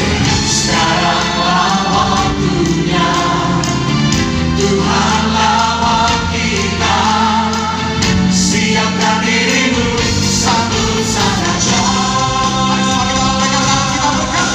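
A choir singing a worship song in long held notes over a band's accompaniment with steady bass notes.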